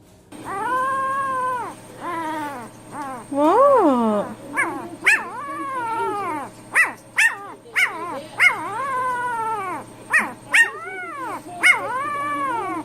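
A dog 'talking': a run of long, arching whine-howls that rise and fall in pitch, broken up by short, sharp yips.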